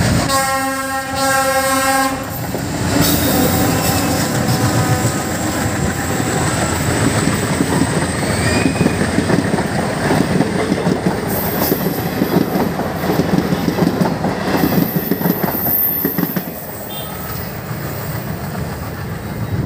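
A diesel locomotive's horn sounds one steady blast for about two seconds. The locomotive and its passenger coaches then run past close by with a continuous rattle and wheels clacking over the rail joints. The sound drops off near the end as the train moves away.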